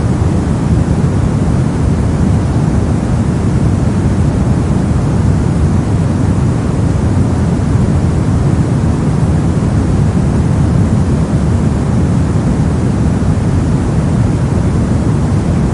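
Steady brown noise: a loud, even, unchanging random hiss-like rumble, strongest in the low frequencies and rolling off toward the highs, with no events or changes.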